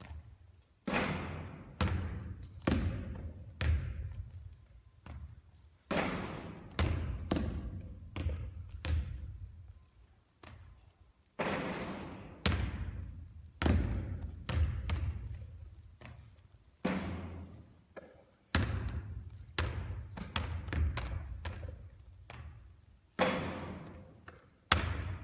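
Basketball bouncing on a court floor again and again, in runs of several bounces a little under a second apart, each a sharp thud that dies away quickly.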